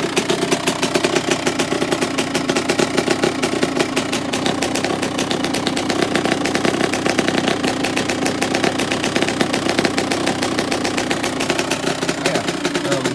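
Kawasaki KX two-stroke dirt bike engine idling steadily with a fast, even popping from the exhaust, left unrevved to warm up after a cold start.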